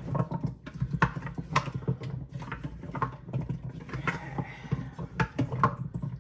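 Spoon stirring meatballs in sauce in a slow cooker crock: an irregular run of soft knocks and clicks.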